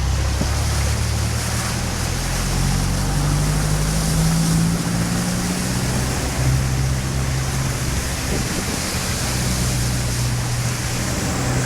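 Heavy rain pouring down in a steady hiss, with a low engine hum underneath that shifts in pitch a few times.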